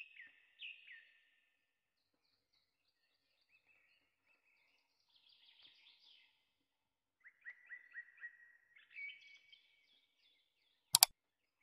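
Small birds chirping faintly, with short falling whistles and quick trills. Near the end comes one loud sharp click, the click effect of an animated subscribe button.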